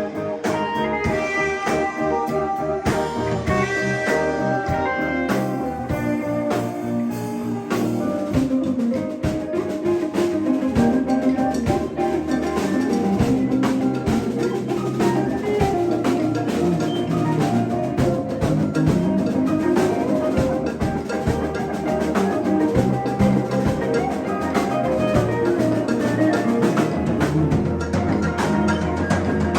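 A live band jamming an instrumental passage: guitar lines over a steadily played drum kit.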